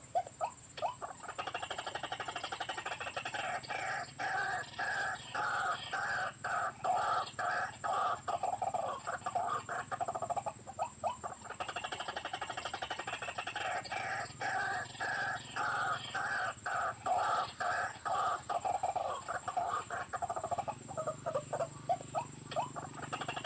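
White-breasted waterhen (ruak-ruak) calls played from an electronic bird caller used as a lure: rapid, harsh, repeated call notes in a phrase that loops about every ten seconds. A steady high-pitched tone runs underneath.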